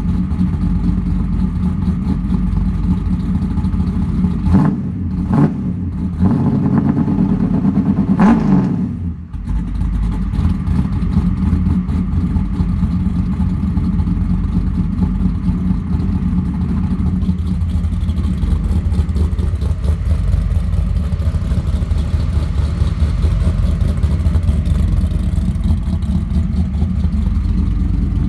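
Car engine idling through a newly fitted Mufflex exhaust with a MagnaFlow muffler. It is blipped a few times, rising and falling, between about four and nine seconds in, then settles back to a steady idle.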